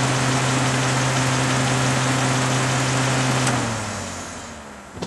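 Car engine idling steadily, then switched off about three and a half seconds in, its hum and hiss dying away over about a second. A single click near the end.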